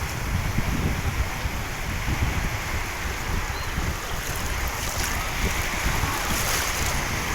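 Steady rushing noise of wind and water, with wind buffeting the microphone in a low rumble.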